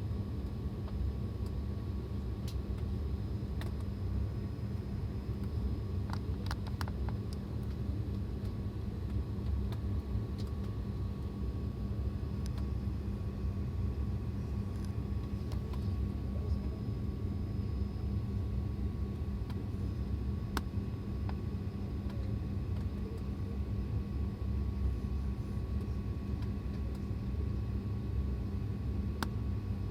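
Steady low rumble and hum inside an airliner cabin on the ground, holding an even level throughout, with a few faint clicks.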